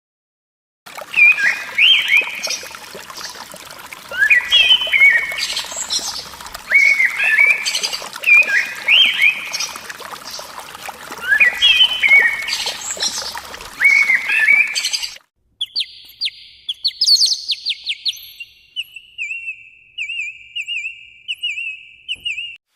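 Recorded calls of domestic birds. The first run has repeated sharply rising and falling calls every second or two over background noise. It cuts off at about fifteen seconds, and a different recording follows: a higher, steadier string of rapid calls.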